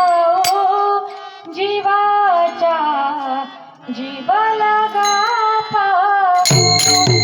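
A girl singing a Marathi abhang, a devotional song, solo, in long ornamented notes that glide and bend in pitch. About six and a half seconds in, jingling, rattling percussion comes in under the voice.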